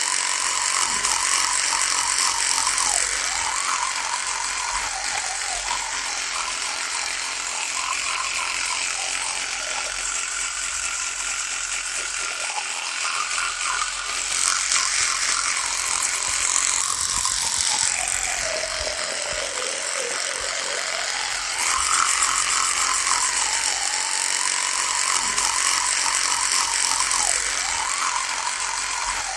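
Electric toothbrush running with a steady buzz whose pitch wavers up and down. The pitch sags well down about eighteen seconds in and comes back up a few seconds later.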